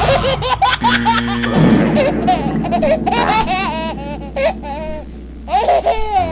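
A child laughing and giggling, with a few sharp clicks near the start.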